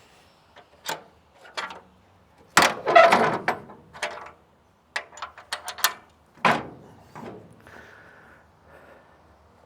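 A string of sharp metallic knocks and clanks, with louder rattling clatter about two and a half seconds in and again about six and a half seconds in: greasy steel stock being handled during unloading.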